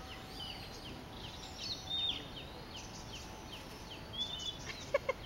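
Small birds chirping over steady outdoor background noise: a run of short, quick down-sliding chirps with a few longer whistled notes. A few louder, short calls come in near the end.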